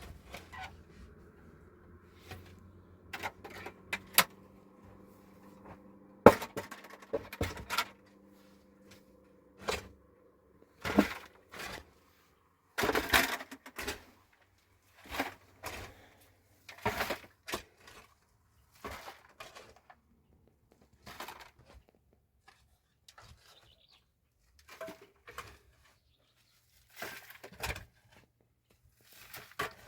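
A series of separate knocks, thuds and scrapes, every second or two, as objects are handled and set down. A faint steady hum lies under the first seven seconds or so.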